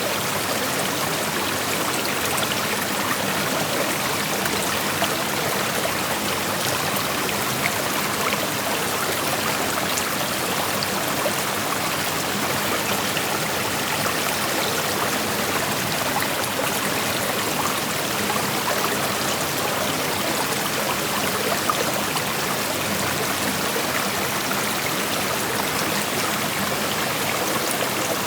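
Shallow creek flowing over rocks: a steady rushing of water with fine splashing and trickling detail.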